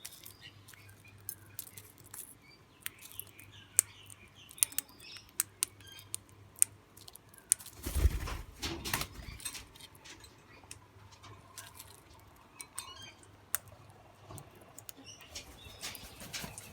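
Small birds flapping their wings, with faint chirps and many sharp clicks scattered throughout, and a louder low burst about halfway through.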